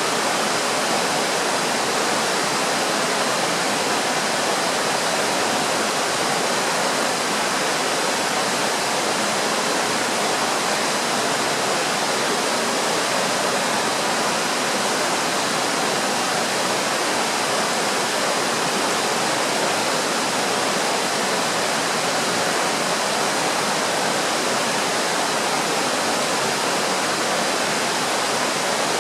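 Rushing river water: a loud, even, unbroken rush with no changes or breaks.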